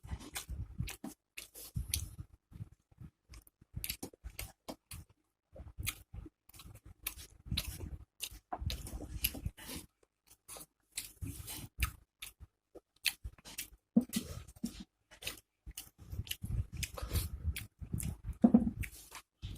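Close-miked sounds of a person eating: irregular, quick chewing and crunching clicks, with low soft smacks mixed in.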